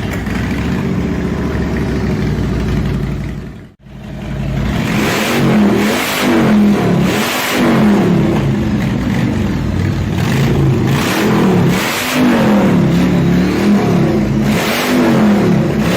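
Harley-Davidson Sportster 1200's air-cooled V-twin running loud through its exhaust. It idles steadily at first, cuts out briefly a little under four seconds in, then revs up and falls back repeatedly in quick throttle blips.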